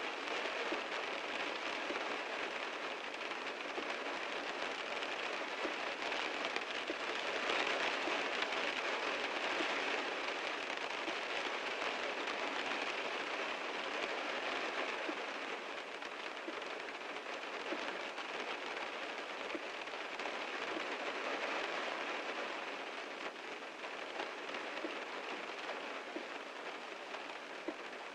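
Heavy rain falling steadily on a car, a dense patter of individual drops hitting the body. It swells slightly early on and eases a little near the end.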